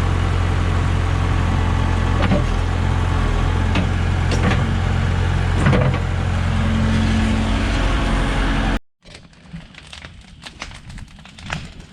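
JCB backhoe's diesel engine running with a steady low drone and a few sharp knocks. It cuts off suddenly about nine seconds in, leaving faint scattered clicks and crackles.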